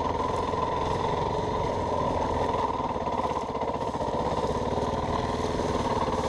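Yamaha WR450F dirt bike's single-cylinder four-stroke engine running steadily as the bike is ridden, with a slight easing of the throttle about three and a half seconds in.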